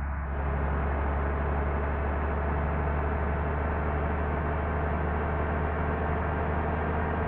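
Large engine running steadily: a deep, even hum with several steady tones above it, growing a little louder just after the start.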